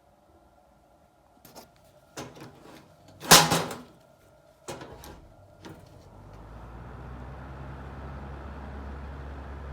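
Several sharp clacks and knocks, the loudest about three seconds in, then a Mitsubishi 25 cm pull-cord kitchen ventilation fan starts about six seconds in and runs up to a steady low hum with rushing air.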